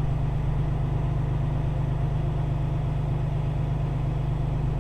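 Grain truck's diesel engine idling steadily, heard from inside the cab while the truck stands waiting.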